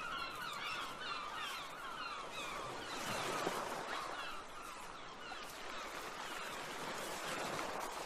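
Birds calling, many short overlapping chirps over a steady hiss, busiest in the first few seconds.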